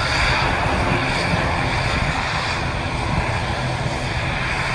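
Jet airliner's engines running, a steady loud noise with no change through the few seconds.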